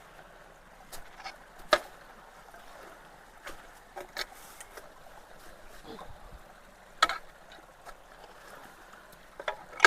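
Water trickling and running into a partly blocked culvert, with a few sharp knocks and clacks of sticks and rocks being handled in the debris at its mouth, the loudest about two seconds in and again about seven seconds in.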